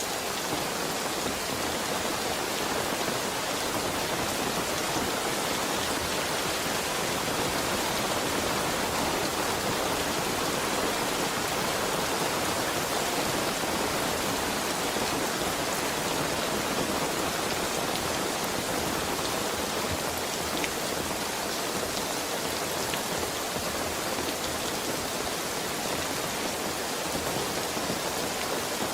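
Heavy rain falling steadily, with the patter of drops on surfaces.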